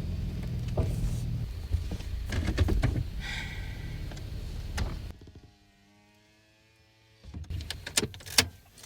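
Ford F-150 pickup running, heard from inside the cab, then going quiet about five seconds in. After a short hush come sharp clicks and thunks of the truck's door being opened.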